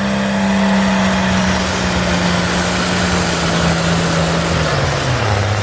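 John Deere pulling tractor's engine running hard under load as it drags the pulling sled, its pitch steady and then dropping sharply near the end.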